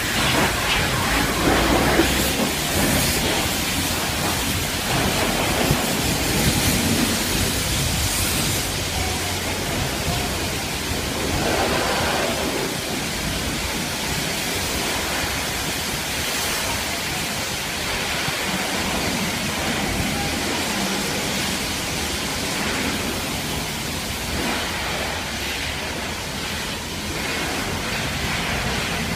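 Car-wash water spray hissing steadily onto a truck, with a low rumble underneath.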